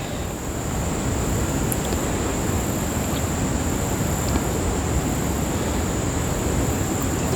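Paintbrush scrubbing wet acrylic paint on a canvas in circular strokes, a steady scratchy swishing.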